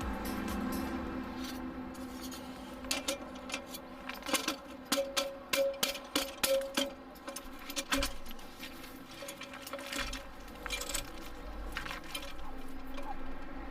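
A run of sharp clinks and rattles, as of small hard objects being handled, clustered in the middle, over faint steady background music.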